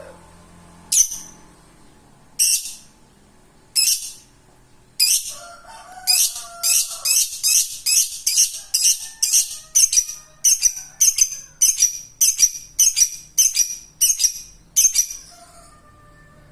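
Lovebird chirping with sharp, high-pitched calls. A few come spaced over a second apart at first, then from about six seconds in they run together at about two a second, the long chattering run that keepers call ngekek.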